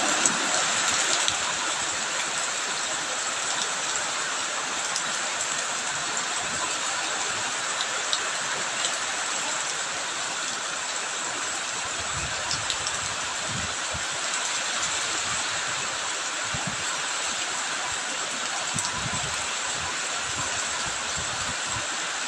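Steady rain mixed with running water, a continuous even hiss with a few faint low thumps here and there.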